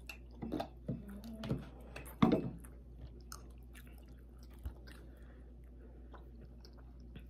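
Close-up chewing and biting into a fried pork chop: a run of short, wet mouth sounds in the first couple of seconds, the loudest a little over two seconds in, then only faint smacks.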